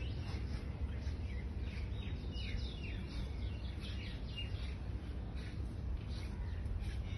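Small birds chirping, many quick short calls one after another, over a steady low rumble of outdoor background noise.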